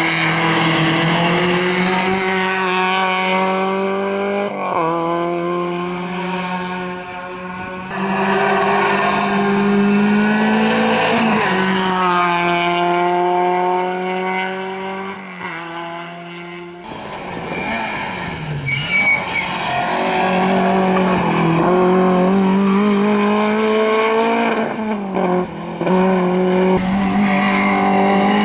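Rally car engines at full throttle, the pitch climbing and then falling back with each gear change. The sound dips briefly after the middle and then builds again.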